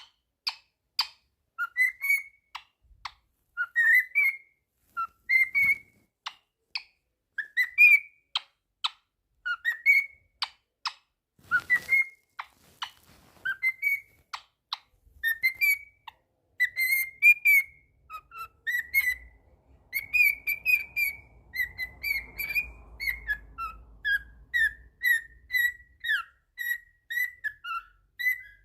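Cockatiel whistling and chirping in a steady run of short notes that often rise at the end, with sharp clicks among them during the first half.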